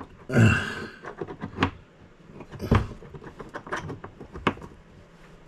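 Scattered clicks and knocks of plumbing fittings and hand tools being handled while a bidet's water line and T fitting are worked into place, with a short rustling burst about half a second in.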